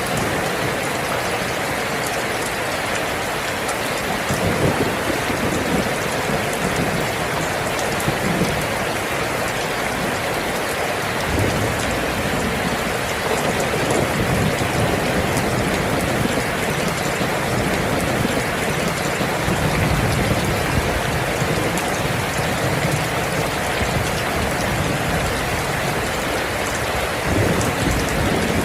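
Steady heavy rain, with low rumbles of thunder swelling and fading several times from about a third of the way in.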